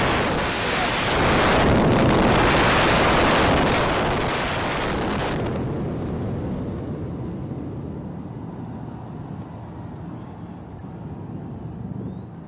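Controlled demolition of a high-rise tower by explosive charges: a loud, dense rush of blast and collapse noise, loudest over the first few seconds, then thinning to a long low rumble that slowly fades.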